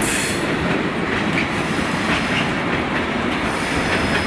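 Freight train's hooded wagons rolling past close by, a steady rumble with the wheels clicking and clattering over the rail joints.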